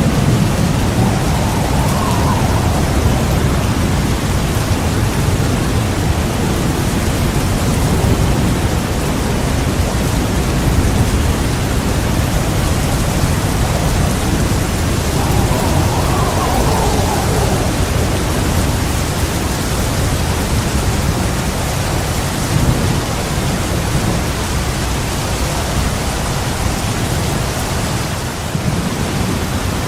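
Heavy rain pouring steadily with a low, continuous rumble of thunder underneath.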